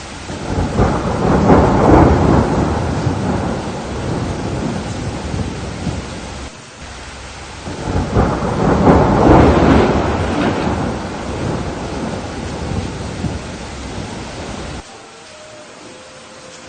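Thunderstorm: steady rain hiss with two long rolls of thunder, one about a second in and one about halfway through, each swelling and then slowly rumbling away. The sound drops off suddenly near the end.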